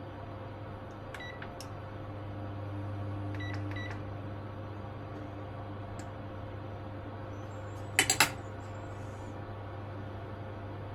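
Short electronic beeps from a kitchen appliance's control panel, two pairs of them about a second and three and a half seconds in, over a steady low hum. About eight seconds in come three sharp clicks, the loudest sound.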